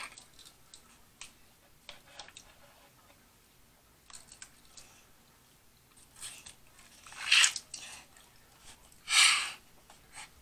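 Eating sounds from picking apart and eating boiled blue crab: chewing with scattered small clicks and cracks, then two louder noises of about half a second each, about seven and nine seconds in.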